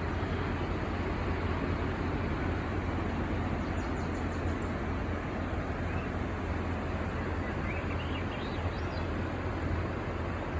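Steady rush of ocean surf and wind across the microphone, with a few short bird chirps about four seconds in and a quick rising run of chirps near eight seconds.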